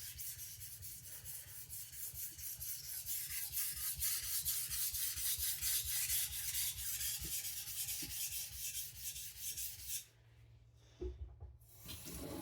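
Steel knife blade stroked back and forth on a whetstone in rapid, even strokes, pressed only by the knife's own weight, thinning the soft-steel blade behind the edge. The rubbing stops suddenly about ten seconds in, and a couple of small knocks follow.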